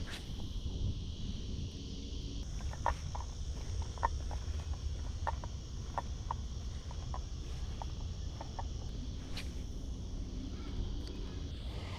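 Insects buzzing in a steady, high-pitched chorus whose pitch shifts slightly about two and a half seconds in. A scatter of short, irregular clicks sits over a low rumble.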